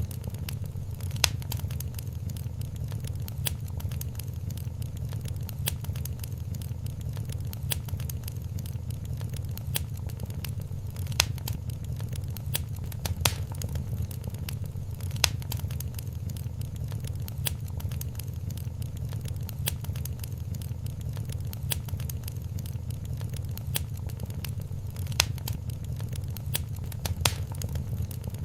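Wood fire crackling in a fireplace: a steady low rumble of flames with sharp pops and snaps at irregular moments.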